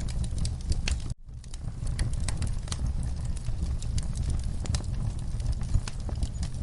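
Wood fire in a fireplace crackling, with frequent sharp pops over a low rumble of burning. About a second in the sound cuts out for a split second and then picks up again.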